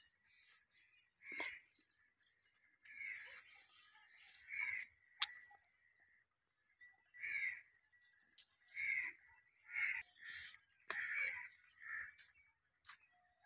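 Short bird calls repeated about ten times at irregular intervals, each call brief. A single sharp click about five seconds in.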